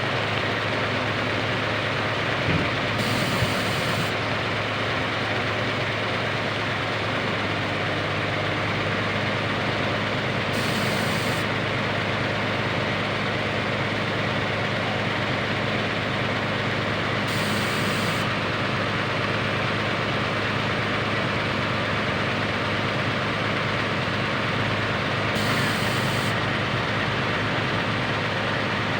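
Heavy-equipment diesel engine running steadily, under an even hiss of rain.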